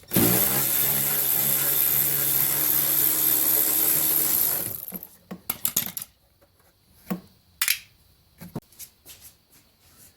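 Handheld power tool motor running steadily for about four and a half seconds, then stopping, followed by a few clicks and knocks.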